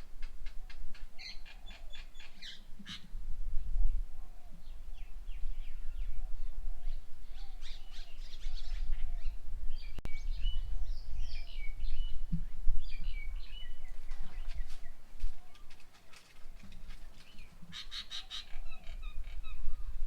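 Several birds calling, with fast rattling chatters near the start and again near the end and whistled, warbling notes in between. A low rumble runs underneath.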